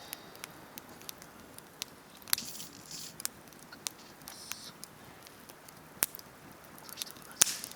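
Wood campfire crackling, with scattered small snaps and a few sharper pops from the burning wood.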